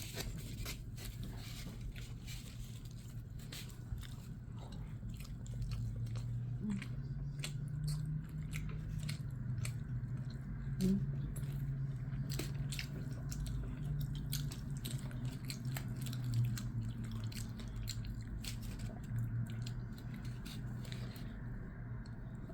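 A person chewing a ground beef and cheese burrito close to the microphone: a stream of short, irregular wet mouth clicks, over a low steady hum.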